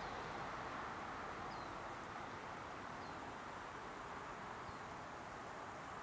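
Steady outdoor background hiss with three faint, high, short bird chirps spaced about a second and a half apart.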